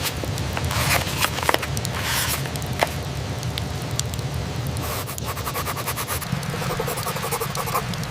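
Steady rain with a campfire crackling, joined by short scraping and rubbing sounds from about one second in and a longer stretch of scraping in the second half.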